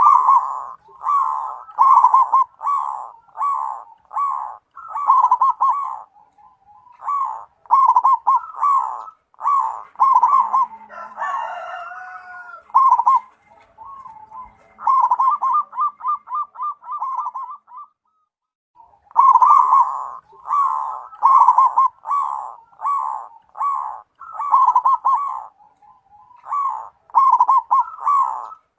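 Zebra dove (perkutut) cooing: rapid trilled coo phrases of repeated notes, each a second or so long, one after another with short pauses and a longer break about two-thirds of the way through. A different call with rising and falling pitch joins in briefly around the middle.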